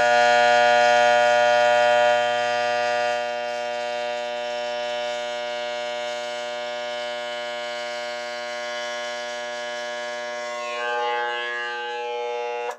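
Rewound microwave oven transformer humming hard under high-current load, a steady mains-frequency buzz. It drops a little in level about two seconds in, swells briefly near the end, and cuts off abruptly.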